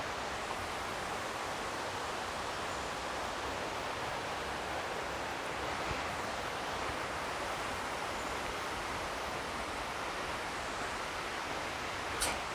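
Steady rush of a waterfall heard from some way off, an even hiss without breaks. A short knock comes near the end.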